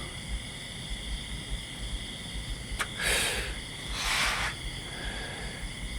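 Steady chorus of insects, crickets or similar, shrilling on several high pitches at once. A faint click, then two short hissing rushes of noise about a second apart, sound in the middle.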